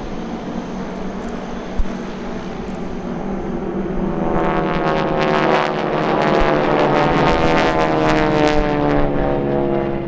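Four T-6 Texan trainers' Pratt & Whitney R-1340 radial engines and propellers diving past on a strafing run. The sound grows louder from about four seconds in, and its pitch slides down as the planes go by.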